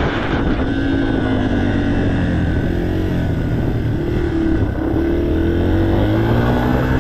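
Yamaha TTR 230 trail bike's air-cooled single-cylinder four-stroke engine running under way, its revs rising and falling, with a brief dip and climb in pitch a little past halfway.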